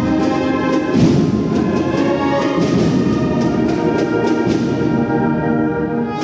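Brass band playing a processional march: held brass chords over repeated percussion strikes.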